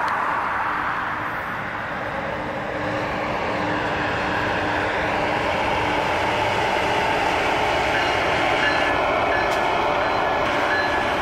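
Commuter train of a locomotive and double-deck coaches passing by at a steady, continuous rumble. Faint short high-pitched beeps repeat in the last few seconds.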